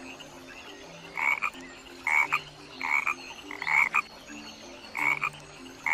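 A frog croaking, one short call about once a second.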